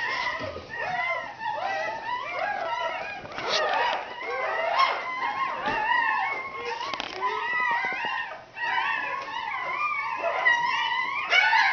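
Newborn standard poodle puppies crying, several at once, in overlapping high, wavering squeals.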